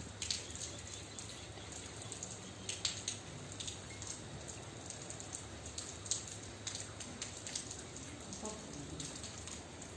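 Rain falling, with irregular sharp drop hits over a steady hiss and a low steady hum underneath.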